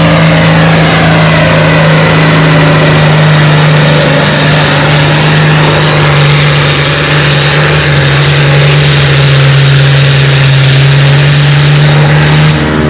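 Pulling tractor's engine running hard under full load as it drags the weight-transfer sled: a loud, steady drone that drops slightly in pitch near the end.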